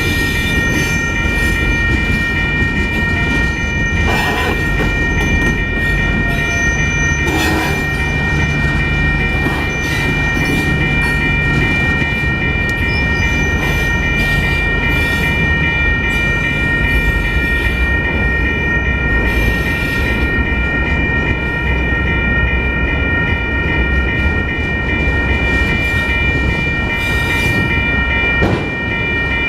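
Union Pacific freight train moving through a rail yard: a steady diesel rumble, a high squeal held throughout, and a few clanks from the cars.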